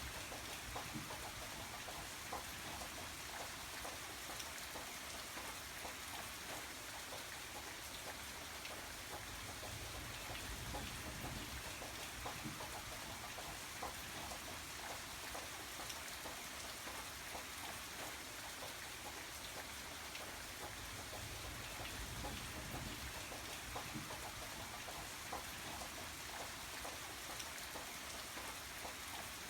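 Steady rain falling, with a continuous hiss and many small drops pattering on a surface.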